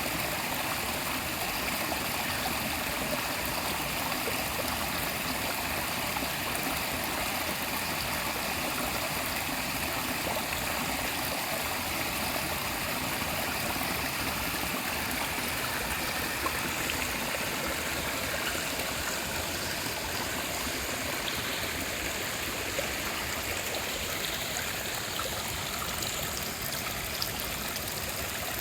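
Small forest stream flowing gently, a steady, even rush of running water.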